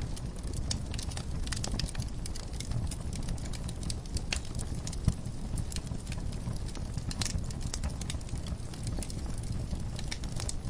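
Wood fire burning in a fireplace: a steady low rumble of flames with scattered sharp crackles and pops, one louder pop about five seconds in.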